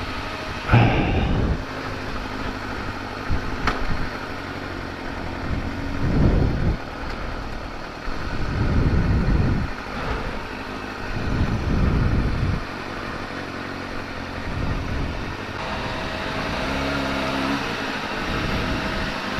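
Kawasaki ZX-6R sport bike's inline-four engine idling while the bike stands waiting, with several low swells in its sound.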